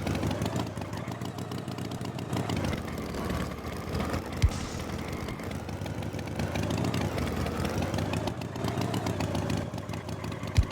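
Cartoon tractor engine running steadily, with a sharp knock about four seconds in and another near the end.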